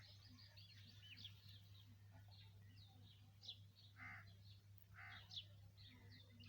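Faint outdoor birdsong: many small birds chirping high and thin, with two short, harsher calls about four and five seconds in. A low steady hum runs underneath.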